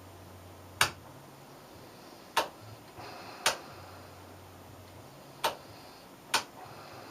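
Power switch clicking sharply about five times at uneven intervals as a ballasted microwave oven transformer is pulsed on and off. A low mains hum from the transformer comes and goes between the clicks.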